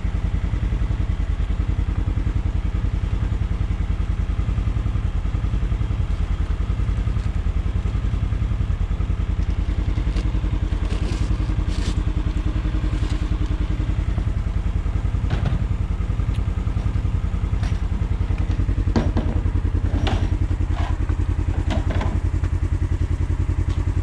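An engine running steadily at an even speed, with scattered clicks and knocks in the second half.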